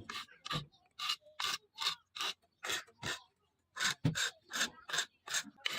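Rhythmic rasping strokes of a hand tool drawn across the steel blade of a knife made from leaf-spring steel, about three strokes a second, with a short pause a little past the middle.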